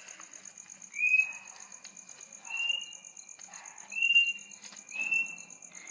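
Crickets chirping in a steady, fast trill. Over it, a short, clear high whistle-like note sounds five times, about every second to second and a half, louder than the crickets.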